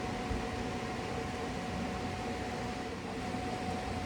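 Steady mechanical hum with a constant tone, like a fan-type machine running.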